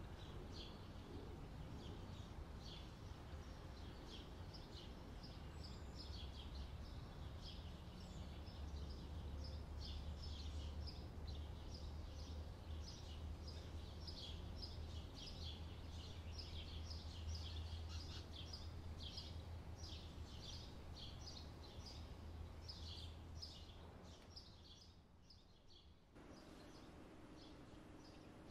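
Birds chirping busily over a low steady rumble, the chirps fading out near the end and giving way to quiet room tone.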